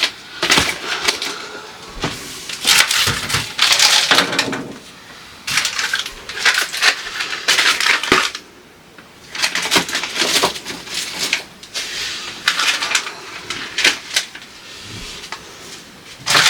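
Food containers and grocery packaging being handled and set down in a refrigerator: irregular clatter of plastic and glass with rustling packaging and sharp little knocks, pausing briefly about halfway through.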